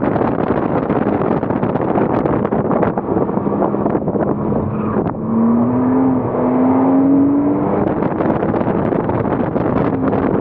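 2007 Porsche Cayman S's 3.4-litre flat-six engine running hard on track under heavy wind and road noise. About five seconds in the sound drops briefly, then the engine note climbs steadily for about two seconds as the car accelerates.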